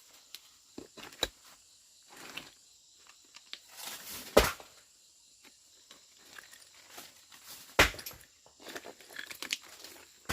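Scattered rustling and light knocks from handling work, with two sharp knocks, one a little after four seconds in and one near eight seconds in.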